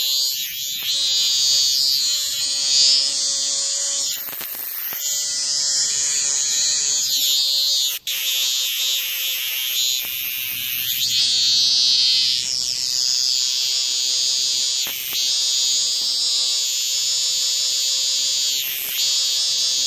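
Cicadas singing: a loud, steady, high-pitched buzz that keeps going with only brief dips.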